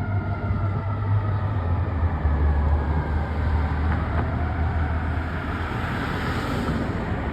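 Fire apparatus responding: a heavy diesel engine rumbling, with the falling tones of its siren dying away in the first few seconds, then steady road and traffic noise.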